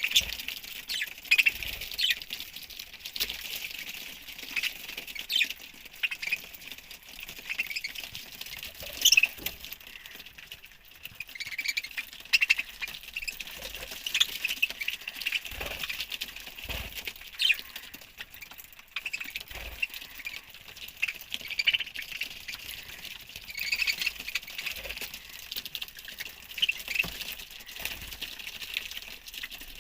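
A colony of budgerigars chattering: many short, high chirps and squawks overlapping without pause, with a few soft low thumps.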